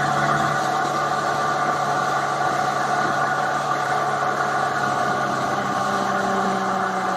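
2018 Triumph Tiger 800 XRt's three-cylinder engine running steadily as the motorcycle rides along, with wind rush over the microphone.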